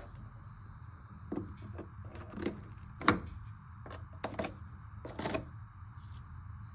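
Irregular short knocks and clatters of things being handled, the sharpest about three seconds in, over a steady low hum.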